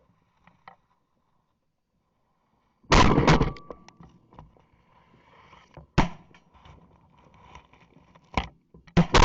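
Shotgun shots at incoming ducks, fired by two hunters. Silence, then a burst of blasts about three seconds in, single shots about three and five seconds later, and a quick pair near the end.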